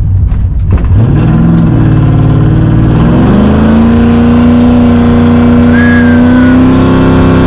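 Truck engine running through a newly fitted Extreme Performance muffler exhaust, accelerating: the revs climb in two steps over the first few seconds, then hold steady at a higher pitch.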